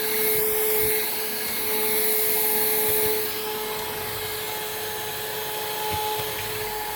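Hoover React cordless upright vacuum cleaner running steadily: a constant motor whine over a rush of air, the airy hiss dropping a little about three seconds in.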